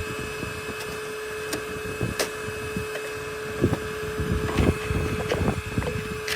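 A steady, even hum runs throughout, with scattered knocks and clicks from handling on top.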